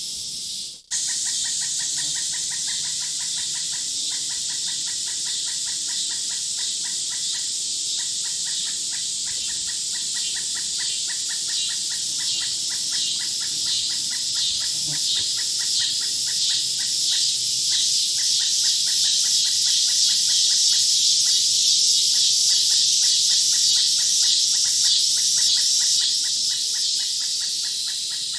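Nature ambience recording: a dense chorus of rapid, evenly pulsed animal chirping that grows louder in the second half. It cuts out briefly about a second in.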